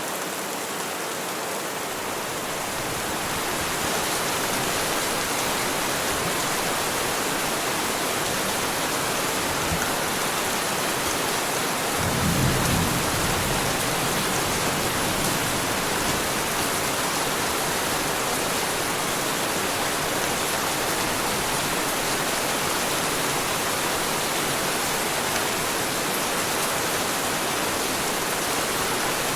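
Heavy rain falling steadily, growing louder about three seconds in. A short low rumble of thunder comes about twelve seconds in.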